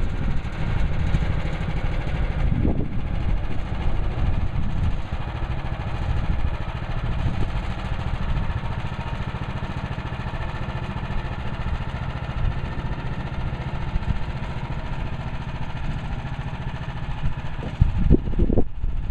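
Woodland Mills HM130 Max portable band sawmill running steadily under its gas engine, with a few short knocks near the end.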